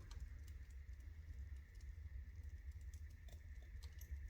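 Wood fire burning in a TMF Statika Sexta fireplace's firebox, crackling faintly: scattered small ticks and pops over a low steady rumble.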